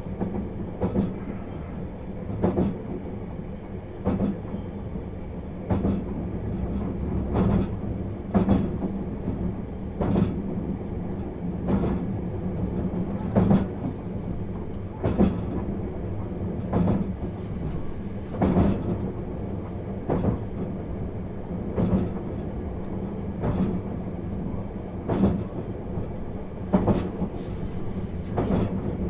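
651 series electric train running along the line, heard inside the car: a steady low rumble and hum, with the wheels clacking over rail joints at a regular pace of about one clack every one and a half seconds. A faint high whine comes in about halfway through.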